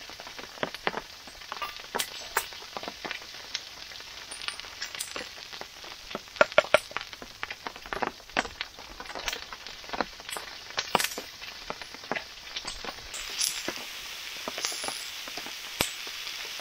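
Sliced potatoes frying in a pan with a steady sizzle, and a wooden spoon scraping and knocking against the pan as they are stirred. The sizzle grows brighter about thirteen seconds in.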